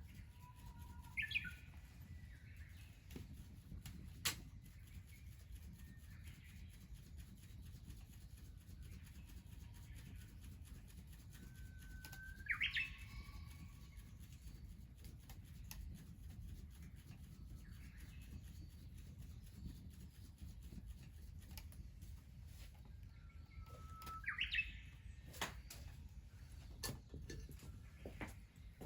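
A bird calling three times, about twelve seconds apart. Each call is a short held note that breaks into a quick rising-and-falling flourish. Under it runs a low steady rumble, with a few sharp clicks.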